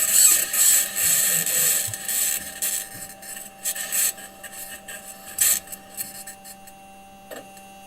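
Raw audio of NASA's Perseverance rover driving on Mars: a hissing, rasping scrape of the wheels on the ground, strongest at the start and dying down, then several separate short scrapes and clanks. A steady hum runs underneath.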